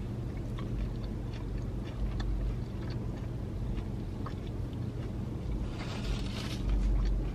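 Close-up mouth sounds of a person chewing a bite of a Burger King fiery buffalo crispy chicken wrap, with soft irregular crunches and smacks that grow louder about six seconds in, over a steady low hum.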